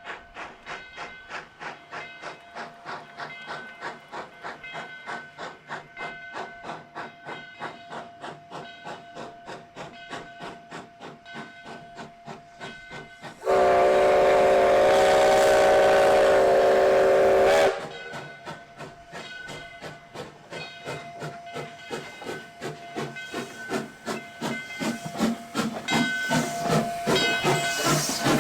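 Baldwin steam locomotive No. 29 chuffing steadily at about two to three beats a second, with steam hiss. About halfway through, a loud chord-like steam whistle blows for about four seconds, then the chuffing resumes and grows louder toward the end.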